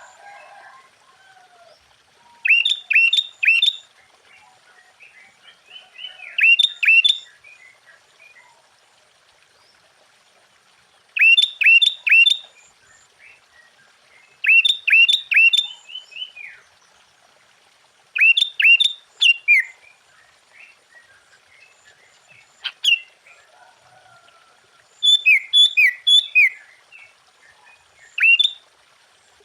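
Sooty-headed bulbul (kutilang) singing: bursts of three or four quick, bright falling notes, repeated every few seconds, with softer chattering between the phrases.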